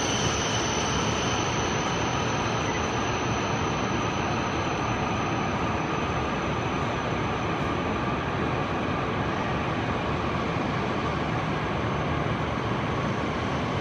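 Shinkansen train arriving at a platform, giving a steady rushing noise with a thin, high, steady tone over it.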